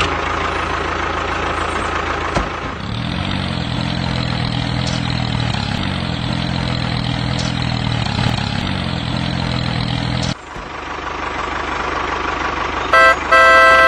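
An engine running, its pitch rising about three seconds in and then holding steady, before the sound cuts off abruptly. A different steady running noise follows, with a few short electronic beeps near the end.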